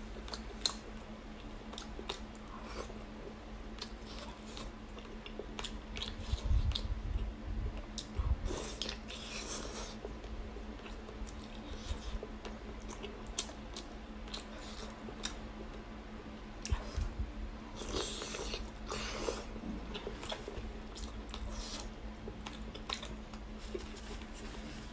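Close-miked eating of braised pork belly: chewing and biting, with many short wet mouth clicks and smacks and a couple of longer noisy stretches. A steady low hum runs underneath.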